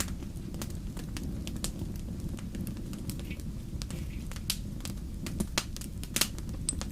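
Wood fire crackling in a fireplace: irregular sharp pops and snaps over a steady low rumble, with a few louder pops in the second half.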